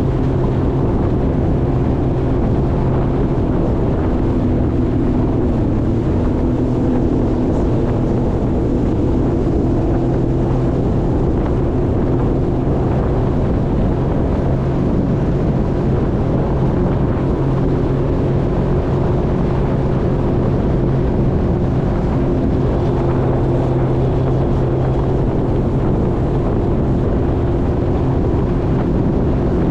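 Jet ski engine running steadily at a constant speed with an even hum, with wind buffeting the microphone.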